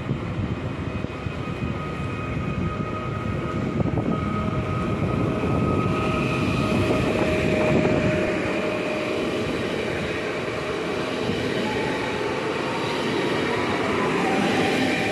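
PESA Elf EN76 electric multiple unit running past along the platform: a steady rumble of wheels on the rails with the whine of the electric traction drive over it, loudest about eight seconds in.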